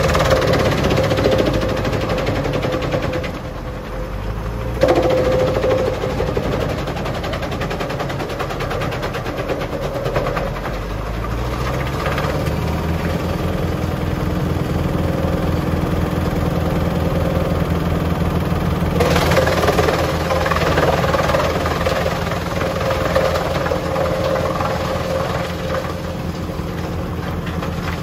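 Junkkari HJ500 wood chipper running off a tractor, the engine pulling steadily under a rough, rattling clatter. The clatter eases about three seconds in, a sharp bang comes near the five-second mark, and the clatter builds up again about two-thirds of the way through.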